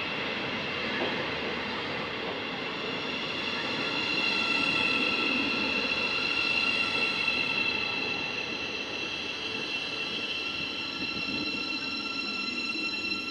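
A train running through the station, with a steady high-pitched whine of several tones over the rumble of the train.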